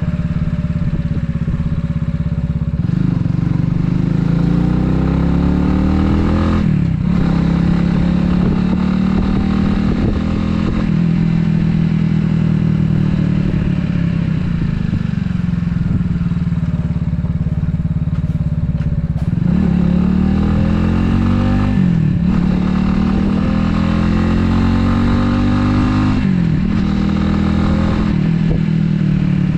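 Italika 250Z motorcycle's single-cylinder engine running under way. It rises in pitch as the bike accelerates, drops sharply at each of three upshifts, and holds a steady note through a long stretch of cruising in the middle.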